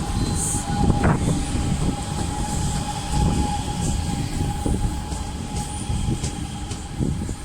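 Metro Bilbao train running through a station: a continuous low rumble of wheels on track, with a steady high whine over it.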